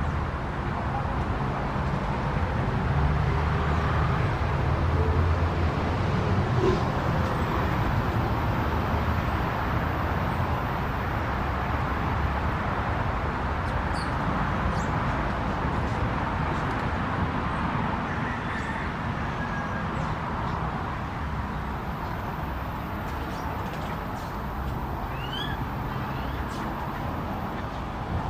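Steady outdoor background noise, a low rumble and hiss, with a few brief bird chirps high above it, twice more clearly about halfway through and near the end.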